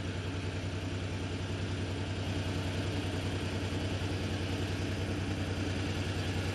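Tractor engine running steadily with a low, evenly pulsing hum, growing slightly louder about two seconds in.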